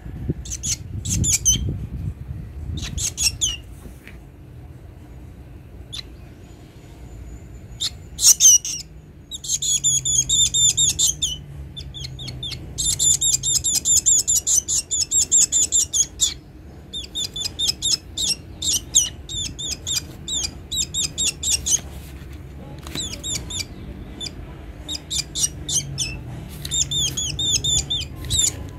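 A hungry pet black bird calling in bouts of rapid, high, repeated chirps, several runs with short pauses between: food-begging calls.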